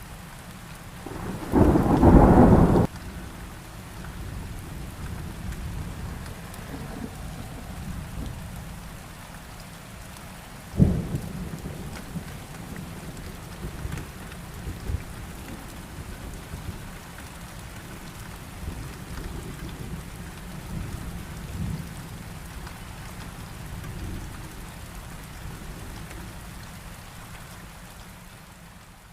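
Heavy rain falling steadily during a thunderstorm, with a loud clap of thunder about two seconds in, a sharp crack of thunder near the middle and lighter rumbles after. The rain fades down near the end.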